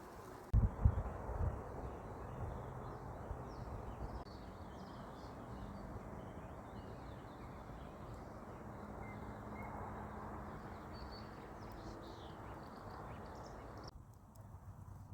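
Small birds chirping faintly over a steady low outdoor rumble, with a few heavy low thumps about a second in; the background changes abruptly near the end.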